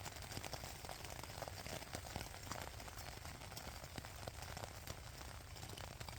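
Steady rain, many small drops pattering irregularly.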